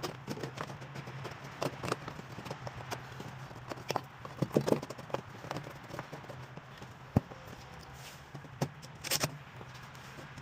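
Plastic and metal parts of a microwave oven being handled and fitted back in place by hand: scattered light clicks and knocks, a cluster of them around the middle, and one sharp knock about seven seconds in, over a low steady hum.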